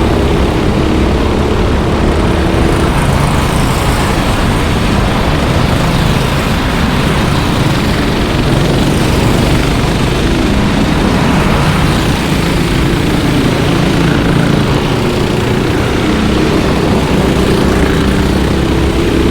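Racing kart engines running on the circuit in a continuous loud buzz, with a higher engine note standing out near the start and again near the end as karts come close.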